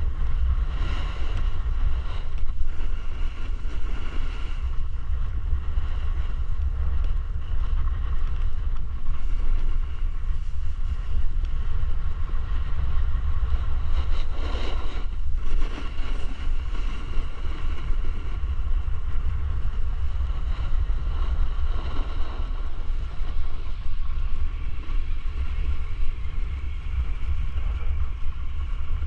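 Wind buffeting the microphone: a steady, loud low rumble with no clear rhythm.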